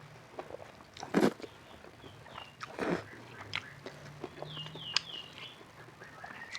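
Close-miked eating: chewing and crunchy bites into spicy Korean fried chicken, with two loud crunches about a second and about three seconds in. Short high falling chirps sound in the background.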